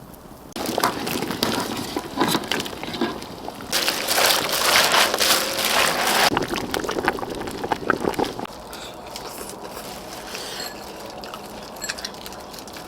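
Liquid sloshing and pouring, loudest about four to six seconds in, then quieter with scattered light clicks.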